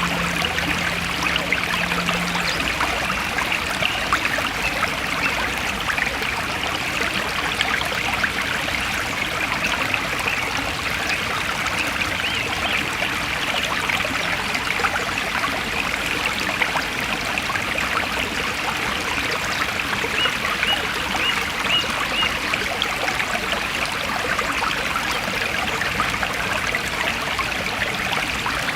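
Forest stream flowing and trickling steadily, with fine splashing throughout. A brief run of faint high chirps comes about twenty seconds in.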